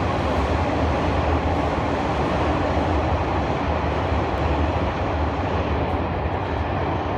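Train passing through a station: a steady, loud rumble of wheels and running gear, with no chime heard over it.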